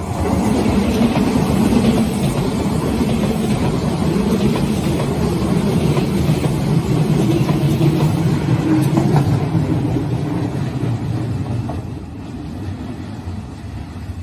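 Hanshin 8000-series electric train passing close by: a steady rumble of wheels on rail and running gear, with a low gliding motor tone. It eases off about eleven seconds in as the last cars move away.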